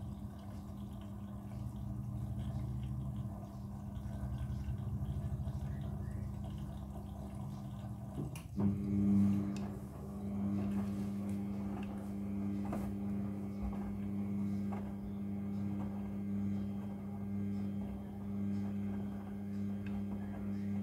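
Midea front-loading washing machine running its wash cycle, the drum turning the clothes with a steady motor hum. About eight seconds in the sound shifts briefly, then settles into a stronger, steadier hum.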